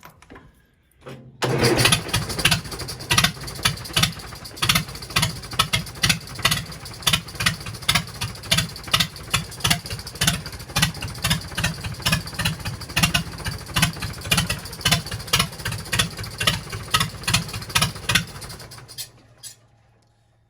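A414 tractor engine starting about a second in, then running with a regular pulsing beat of about two a second, before it is shut off and dies away near the end.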